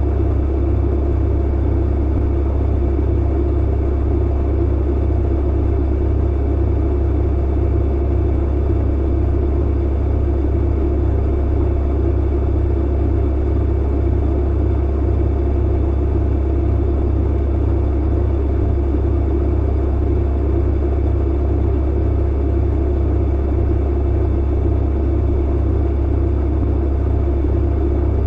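Clothes dryer running: a steady low hum and rumble that does not change.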